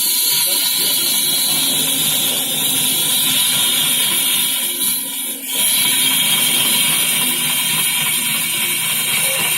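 Wood lathe running with a tool cutting into the turning wood: a loud, steady hissing machine noise that dips briefly about five seconds in.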